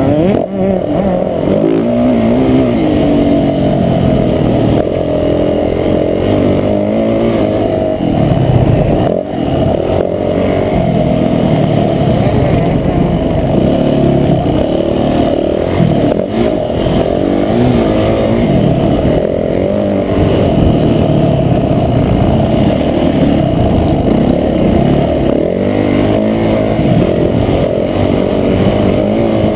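Motocross bike engine revving hard, its pitch repeatedly climbing and dropping as the throttle is opened and shut and gears change.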